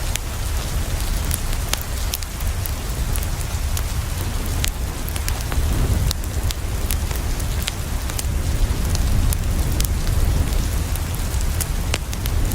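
Steady rain falling on a window, with a deep low rumble underneath and scattered sharp crackles and pops from a wood fire.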